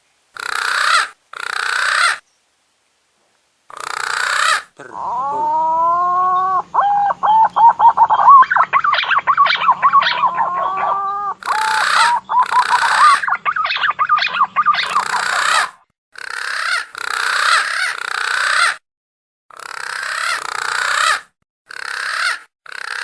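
Punai daun (green pigeon) lure call: short harsh call bursts repeated with gaps. In the middle comes a longer phrase of rising whistles that breaks into fast warbling notes.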